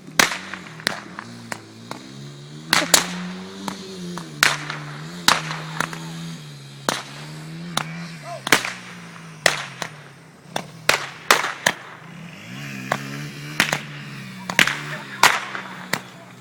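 A dirt bike engine running, its pitch rising and falling as the throttle changes. Over it come many sharp cracks and pops at irregular intervals from small firework rockets.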